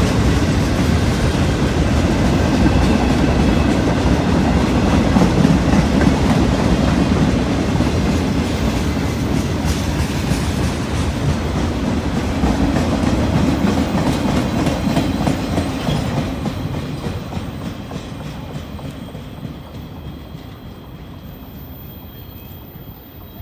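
Freight train rolling past, its wheels clacking steadily over the rail joints. The sound fades away over the last several seconds as the train draws off.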